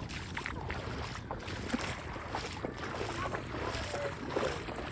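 Steady rushing noise of wind on a phone microphone and shallow sea water along a beach.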